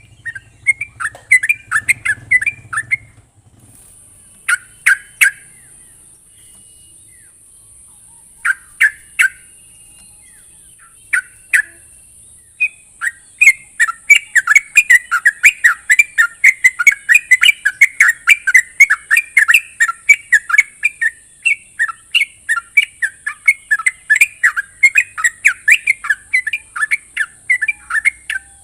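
Yellow-vented bulbul (trucuk) singing in rapid bubbly chattering phrases: a short run at the start, a few brief pairs of notes, then a long unbroken run of fast chattering from about twelve seconds in. A steady high hiss sits behind the song for most of it.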